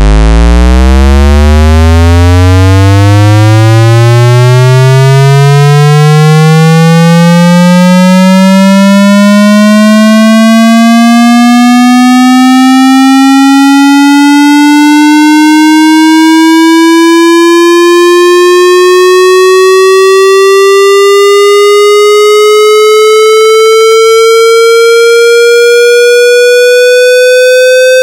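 Water-eject speaker-cleaning tone: one loud synthesized tone gliding slowly and steadily upward, from a low hum to a mid-pitched tone. At first it carries buzzy overtones, which thin out as it rises.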